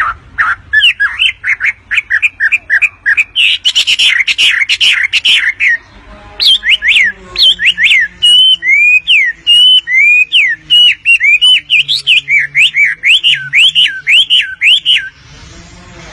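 Wambi songbird in full song: fast runs of sharp repeated chirps, then after a brief pause about six seconds in, a long series of loud swooping whistled notes.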